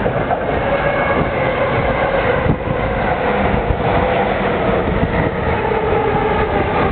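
A JR Yamanote Line electric commuter train running past close by: wheels rumbling on the rails with occasional clacks, and a motor whine that falls slowly in pitch.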